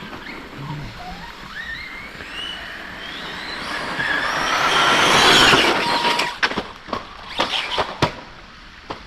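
Electric RC stunt truck's brushless motor whining, rising in pitch as it accelerates and comes closer, loudest about five seconds in. Then a few sharp knocks and clatter as the truck hits the ground.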